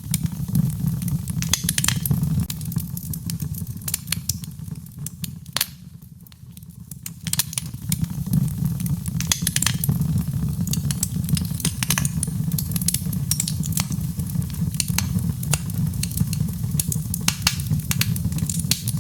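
Wood fire in a fireplace crackling, with sharp pops at irregular intervals over a low steady rumble of flames. The crackling eases off for a few seconds early in the first half, then picks up again.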